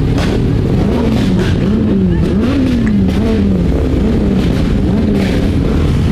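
Motorcycle engine running under way, its note rising and falling several times with the throttle, over a steady rumble of wind on the microphone.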